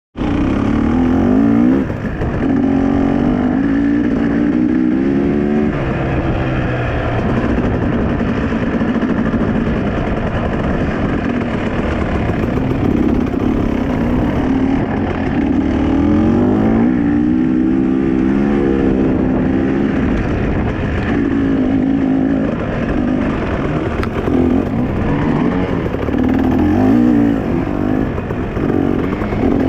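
Dirt bike engine riding and revving, its pitch climbing and dropping again and again as the throttle opens and closes.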